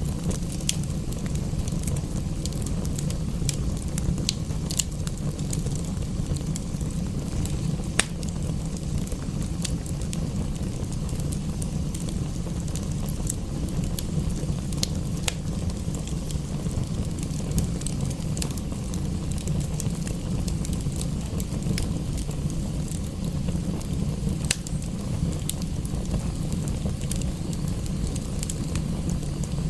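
Wood fire in a fireplace crackling, with irregular sharp pops, the sharpest about eight seconds in, over a steady low rumble.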